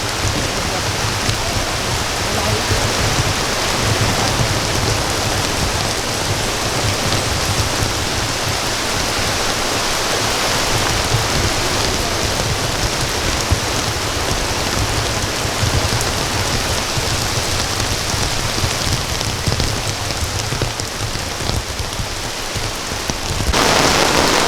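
Rain falling steadily and densely, with no break; the rain gets suddenly louder shortly before the end.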